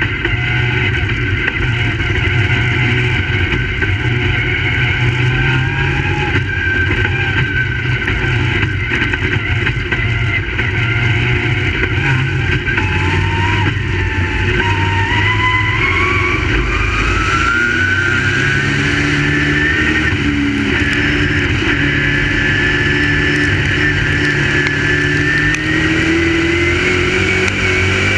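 Crate late model dirt-track race cars running laps, several engines heard at once. The engine note climbs in long rising sweeps as the cars accelerate, most clearly from about the middle onward.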